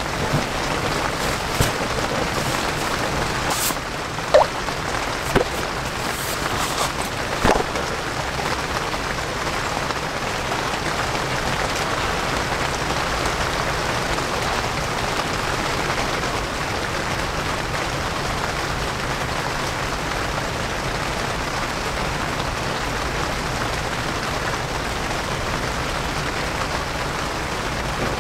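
Steady rain falling on the tent fabric, heard from inside the tent, with a few light clicks in the first several seconds.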